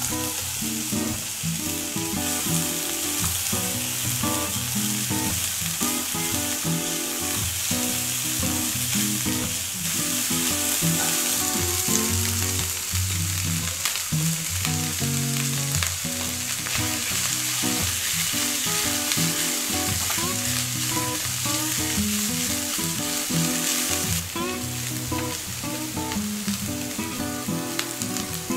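Frozen mixed vegetables and green onion, then rice, sizzling in hot oil in a frying pan while being stirred with a spatula. The sizzle is strongest through the middle and eases off near the end, under background music.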